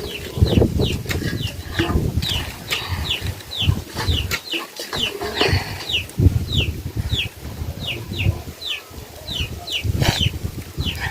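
A small bird chirping over and over: short, high, falling notes about twice a second, over low rustling and thumping.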